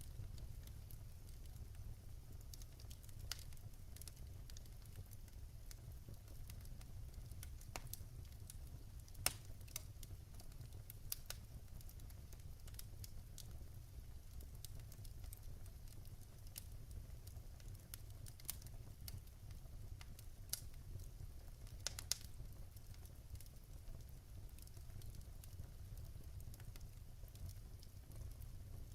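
Wood fire burning in a fireplace: a steady low rumble with scattered sharp crackles and pops, a few louder pops around a third of the way in and again about three quarters of the way in.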